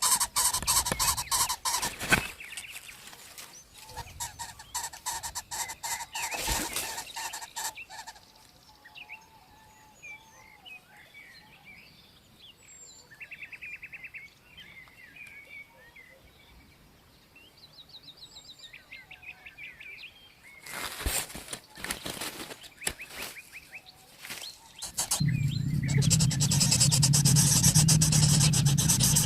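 Small birds chirping and trilling in the background between stretches of harsh crackling noise, which is loudest in the first several seconds and again about three-quarters of the way in. Music comes in near the end.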